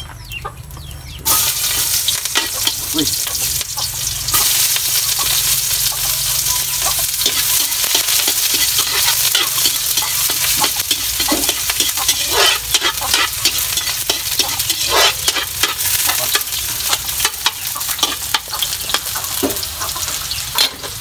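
Chopped onion and garlic going into hot oil in a wok: a loud sizzle starts suddenly about a second in and keeps going steadily, with a spatula scraping and stirring against the pan as they sauté.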